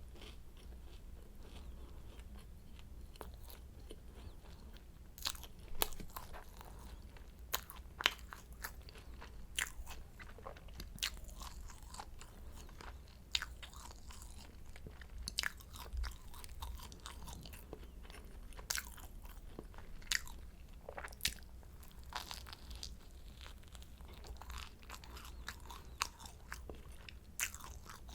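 Close-miked bites and chewing of flaky croissant pastry: irregular crisp crunches and crackles, some sharper than others.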